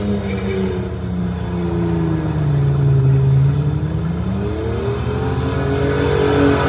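Burnout car's engine held at high revs while its rear tyres spin in smoke. The engine note sags over the first few seconds, then climbs again about four and a half seconds in.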